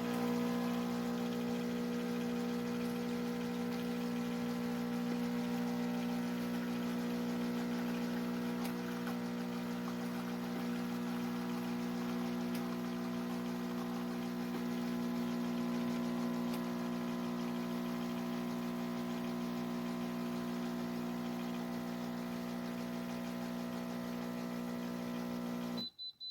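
Laekerrt 20-bar espresso machine's vibration pump running steadily, a loud even hum as it pushes water through during brewing. It cuts off suddenly near the end, and the machine starts to beep.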